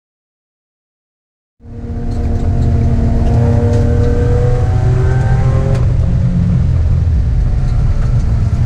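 Silence for about a second and a half, then a sports car's engine fades in, heard from inside the cabin. It runs at steady moderate revs, its pitch easing down a little midway, over a deep rumble of engine and road noise.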